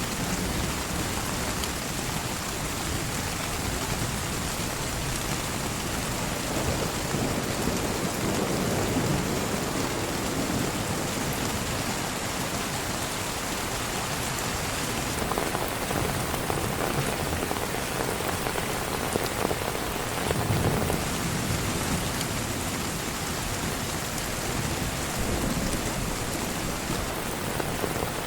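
Heavy rain falling steadily, with low rumbles of thunder swelling up a few times.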